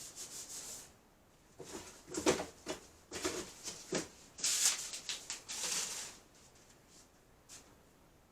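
Intermittent rustling and light knocks of things being handled, in irregular bursts over the first six seconds, then a single small tick.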